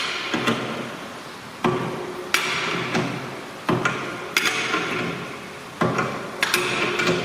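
Spanner working on a large steel axle nut as it is tightened: sharp metallic clanks about once a second, often in pairs, each followed by a fading ringing rasp.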